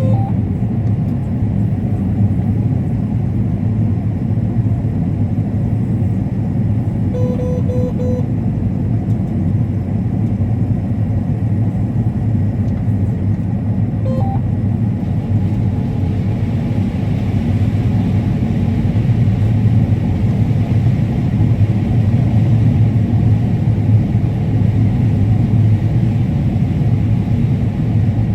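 Combine harvester running steadily while cutting corn, a constant low drone as heard from inside the cab. A few short electronic beeps sound about a quarter of the way in and again around halfway.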